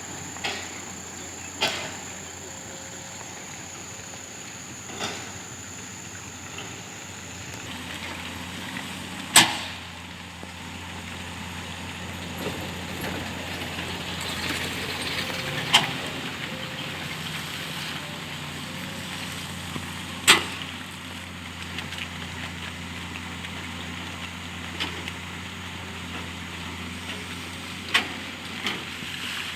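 Excavator diesel engine running steadily at work, with sharp knocks every few seconds, the loudest about a third of the way in and again about two-thirds in.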